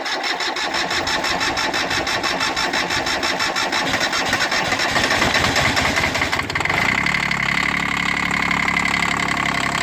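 Old diesel garden tractor engine cold-started in below-freezing weather: the starter cranks it rhythmically for about six and a half seconds, then it catches and settles into a steady run.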